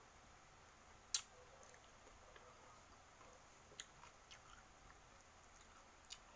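A person quietly chewing and eating rice by hand, with one sharp click about a second in and a few fainter clicks later.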